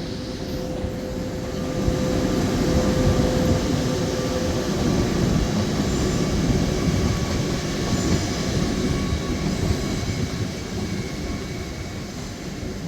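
A train running past a station platform: a steady heavy rumble of wheels on rail that swells about two seconds in and eases toward the end, with a few faint steady whining tones over it.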